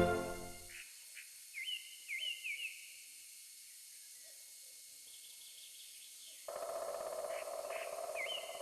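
Music fades out, then a few quick bird-like chirps sweeping in pitch. About two-thirds of the way through, a steady mid-pitched buzzing noise starts suddenly, with more chirps over it near the end.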